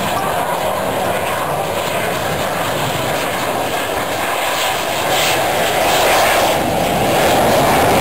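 Aircraft engine noise from a plane flying past, a steady rushing sound that grows louder about five seconds in.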